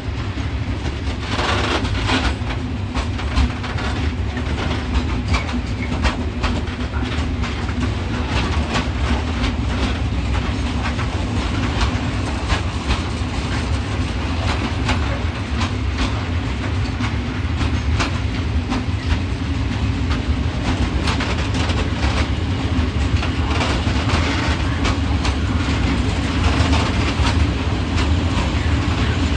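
Freight train of loaded open coal wagons rolling slowly through the station behind an ET22 electric locomotive: a steady low rumble with a continual clatter of wheels over rail joints.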